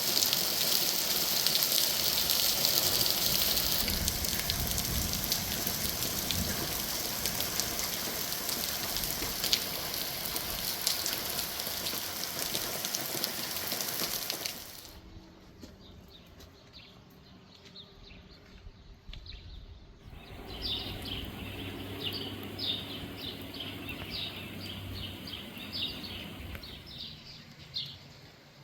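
A loud, steady rushing noise cuts off suddenly about halfway through. After a quieter stretch, small birds chirp in quick, repeated high notes.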